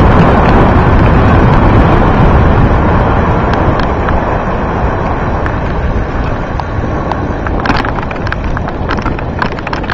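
Wind rushing over the microphone of a camera riding on a moving bicycle, a loud rush that slowly dies down as the bike loses speed. A few light clicks and rattles come near the end.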